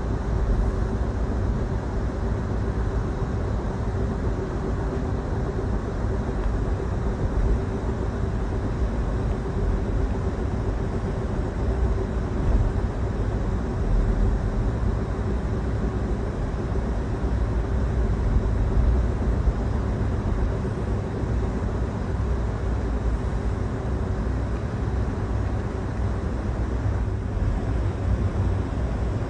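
Steady rumble of a moving passenger train heard from inside the carriage, with a constant low hum over it and no breaks or changes.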